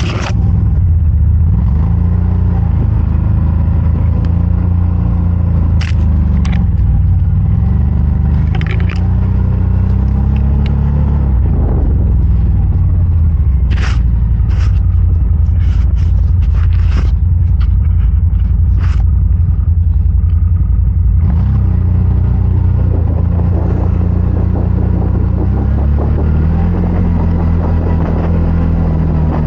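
CFMOTO Gen 3 1000's engine running hard, its pitch rising and falling again and again as the throttle changes, with short sharp clicks and knocks scattered through, a cluster of them in the middle.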